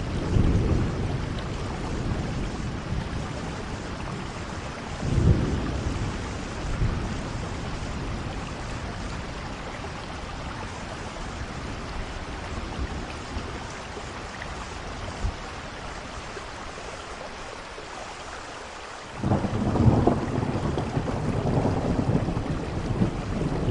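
Steady rainfall with rolls of thunder: a rumble at the start, a short one about five seconds in, and a louder, longer rumble building from about nineteen seconds on.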